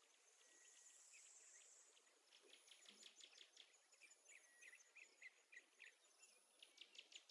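Near silence with faint, high chirping and ticking in the background, many short chirps in quick succession, denser near the end.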